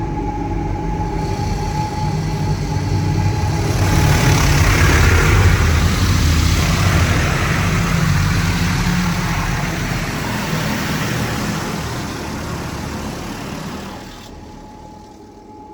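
Mark VII AquaJet GT-500 touch-free car wash machinery running: a loud, steady rush over a low rumble that builds over several seconds, eases, and cuts off suddenly near the end.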